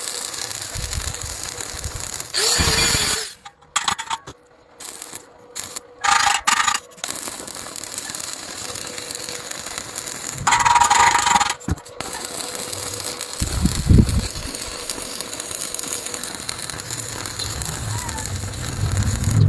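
Electric arc welding: a steady crackling hiss, broken by abrupt cuts and by louder, brighter stretches, with a low thump about two-thirds of the way through.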